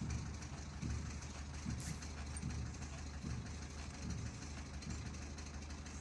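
Citroën C3 engine running with a steady low hum and a soft low knock repeating about every three-quarters of a second. This is the abnormal noise that appeared after the car took a hit on the road, which the owner traces to an engine mount broken in two.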